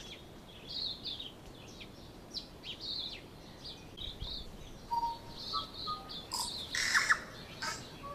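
Songbirds chirping in short, repeated high calls, with a few clear whistled notes and a louder burst of calls about seven seconds in.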